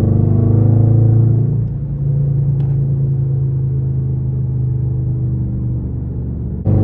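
Straight-piped 5.6-litre V8 of an Infiniti M56 running under way with a steady low drone. It eases a little about a second and a half in, then comes back abruptly louder near the end.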